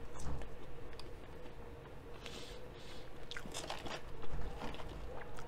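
Close-up mouth sounds of a person chewing crisp Popeyes fries: irregular small crunches and wet chewing clicks scattered throughout.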